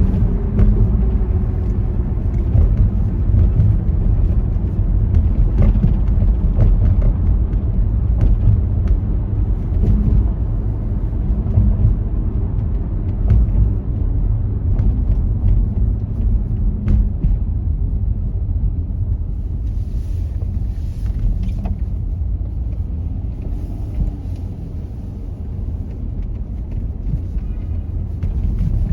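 Steady low road rumble from a moving car, with scattered light knocks from bumps and joints in the road.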